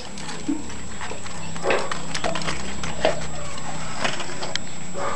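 Birds calling in short, scattered calls about once a second over a steady low hum.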